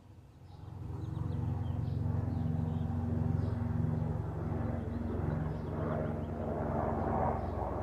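A low engine drone swells up about a second in and stays loud, a steady hum with a few held pitches, while small birds keep chirping faintly in the background.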